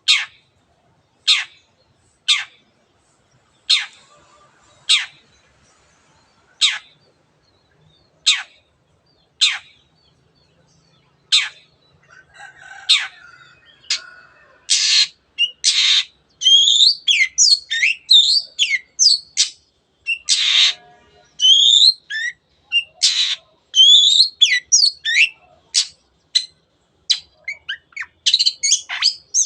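Long-tailed shrike (cendet) singing: first a slow series of single sharp "teot" notes, about one every second or so, then from about halfway a fast, varied song of twisting whistles and harsh chattering notes, ending in a quick run of short notes.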